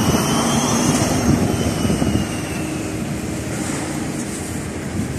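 LiAZ-4292 city bus under way, heard from inside: a steady rumble of engine and road noise, with a faint high whine that rises and then falls over the first few seconds.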